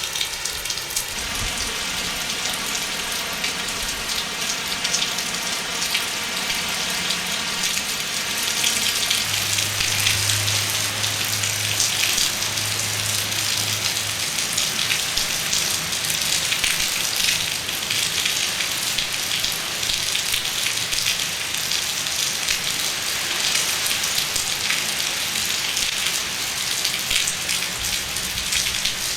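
Heavy hurricane rain pouring down in a steady, dense hiss. Faint pitched tones sound over it for the first several seconds, and a low hum runs from about ten to fourteen seconds in.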